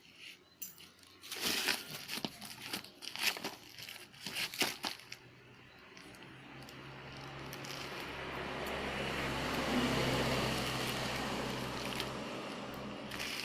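Plastic packaging crinkling and rustling in quick bursts as a Kemei hair clipper is unwrapped. From about six seconds in, a steady buzzing hum swells, peaks and fades again near the end.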